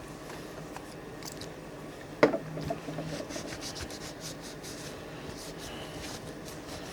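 A cloth rubbing and wiping over a knife, a run of soft, uneven scratchy strokes. A single sharp click comes about two seconds in.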